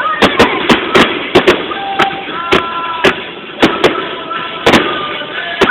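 Fireworks display: about a dozen sharp bangs in irregular succession, with whistling tones and short gliding whistles between them.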